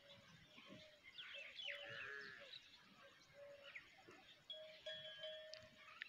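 Faint birdsong: scattered high chirps and short whistled notes, with a repeated held note in the last second and a half.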